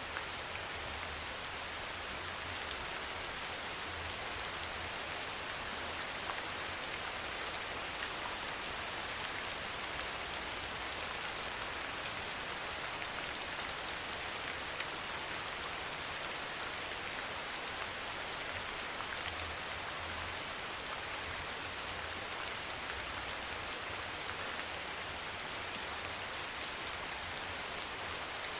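Steady soft rain falling, an even hiss with faint individual drop ticks scattered through it.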